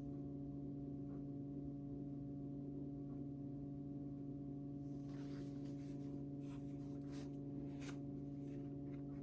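A steady low hum made of a few fixed tones, with several faint, brief noises in the second half.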